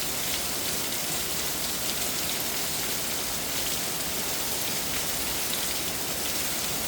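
Heavy downpour, rain hammering down hard on surfaces and standing water in a steady, dense hiss, with scattered individual drop ticks.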